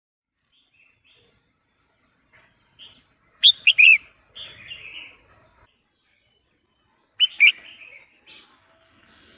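Female red-whiskered bulbul calling: two loud bursts of short chirps, one about three and a half seconds in and one about seven seconds in, with softer twittering between them.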